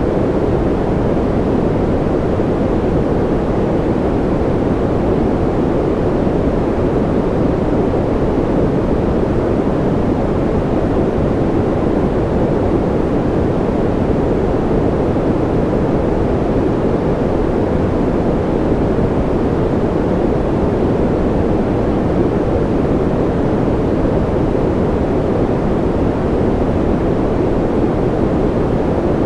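Continuous white-noise track, an even rushing hiss that never changes, weighted toward the low end so it sounds deep and dull rather than bright.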